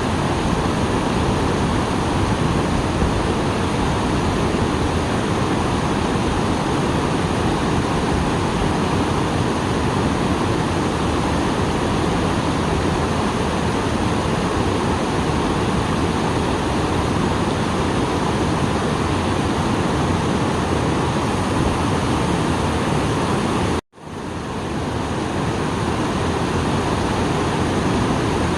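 A small waterfall swollen after rain, water pouring and splashing in a steady rush. The sound cuts out for an instant about 24 seconds in and fades back up.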